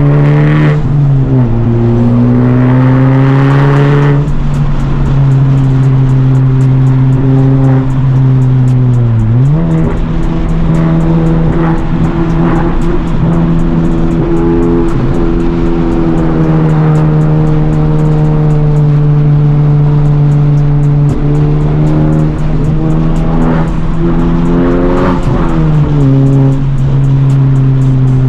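Honda Civic Type R FL5's turbocharged four-cylinder engine, with catless downpipe and resonator delete, pulling steadily on the road. Its note climbs slowly, then drops and recovers sharply at gear changes about a second in, about nine seconds in and right at the end.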